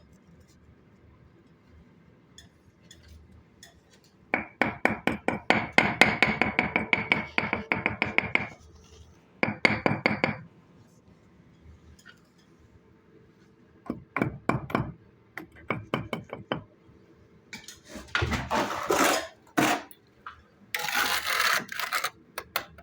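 Bricklaying work: a steel trowel scraping and clinking against brick and mortar in several runs, the longest a fast series of sharp clicks about four seconds in. Rougher scraping follows near the end.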